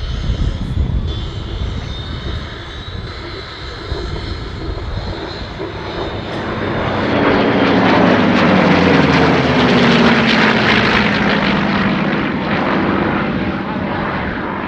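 WWII piston-engined fighters, a P-47 Thunderbolt and P-51 Mustangs, flying past in formation. The engine sound builds over several seconds, peaks about halfway through, and drops in pitch as the aircraft go by.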